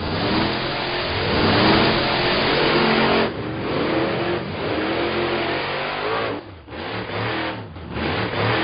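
Cartoon vehicle engine sound effect, revving up and down over and over, with a sudden drop about three seconds in and brief breaks near the end.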